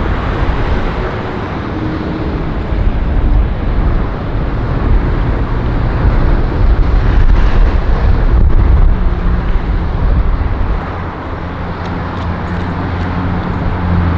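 Strong gusty wind buffeting the microphone, rising and falling in loudness, with road traffic running underneath.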